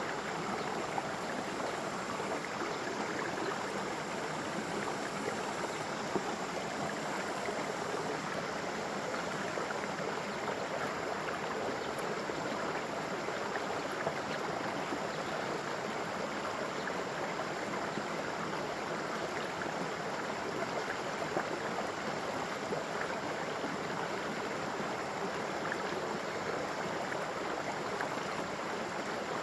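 Water flowing steadily over a gentle waterfall, an even rush that does not change.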